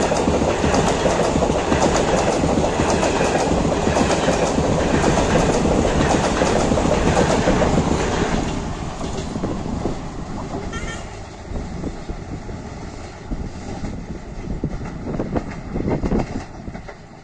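Passenger coaches of an Indian Railways express running through at speed: a steady rumble with the clickety-clack of wheels over rail joints. About eight seconds in the last coach passes and the sound drops away to a fainter rumble as the train recedes.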